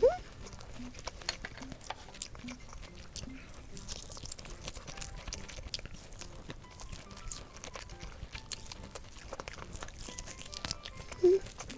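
Crunchy bites and chewing of fried chicken, many small crackling crunches close to the microphone, over faint background music. A short rising tone sounds at the start and a brief low tone near the end, the loudest moments.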